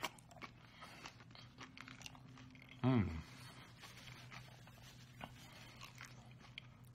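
Close-up crunching and chewing of a crisp tostada shell topped with shredded chicken and nopalitos, a steady run of small crackles, with one short falling hum of the eater's voice about three seconds in.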